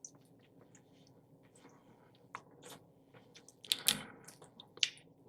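A person eating: chewing with many small mouth clicks and smacks, louder for a moment about four seconds in and again near five seconds.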